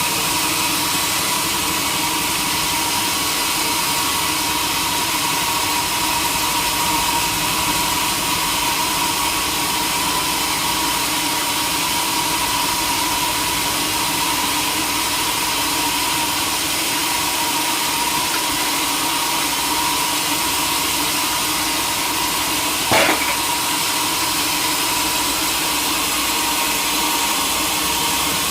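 Sawmill machinery running steadily, a constant machine hum with a high hiss. One sharp knock sounds near the end.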